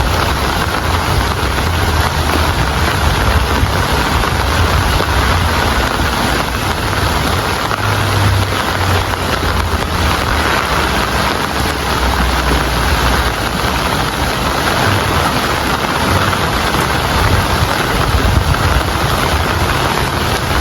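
Steady heavy rain, a dense even hiss of drops, with a low rumble underneath that swells and fades.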